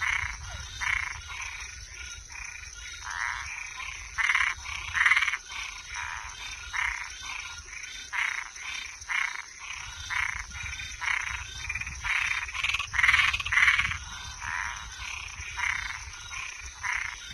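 A chorus of frogs at night: short croaking calls repeated about twice a second, overlapping and uneven in loudness, over a steady high-pitched buzz.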